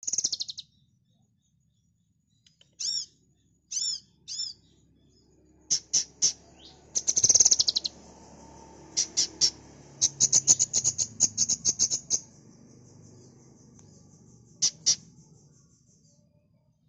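Kinoi songbird singing in spurts of high, sharp chirps: a few arched whistled notes, then a fast chattering trill that runs for several seconds, with short pauses between phrases.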